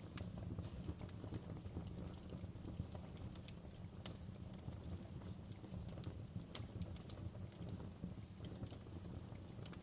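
Wood fire in a fireplace crackling: irregular small pops and snaps over a steady low rumble of flame, with a couple of sharper pops about six and a half and seven seconds in.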